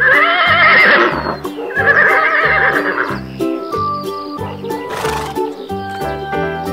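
A horse whinnying twice, a recorded sound effect: one call right at the start and a second a moment later, each with a quavering pitch. Background music plays underneath.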